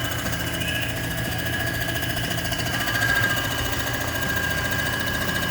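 Comec ACF200 cylinder-head surfacing machine running steadily during a light pass on an AMC 360 head's deck, a low hum with a steady high whine. The level swells slightly about three seconds in.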